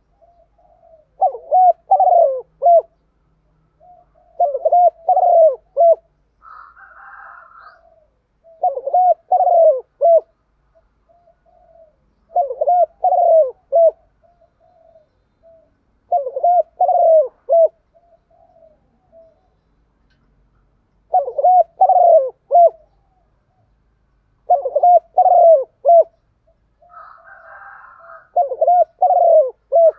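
A spotted dove cooing: a short phrase of several deep coos about every four seconds, eight phrases in all. A fainter, higher-pitched call from another bird comes in twice, about seven seconds in and near the end.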